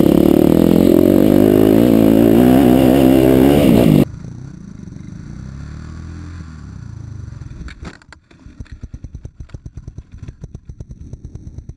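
A dirt bike engine running loud with a wavering pitch, cut off abruptly about four seconds in. After it a quieter engine runs, and from about eight seconds an engine idles with a fast, even beat.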